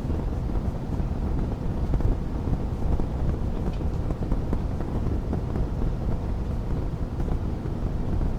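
Wood fire crackling in a fireplace, with small pops scattered over a steady low rumble.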